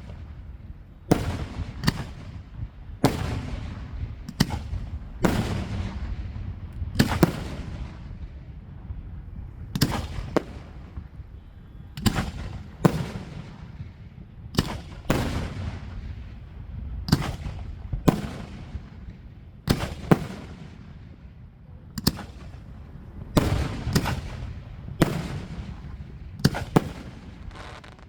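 Aerial fireworks shells bursting in a continuous volley, a sharp bang about every second, with low rumbling echoes between the bangs.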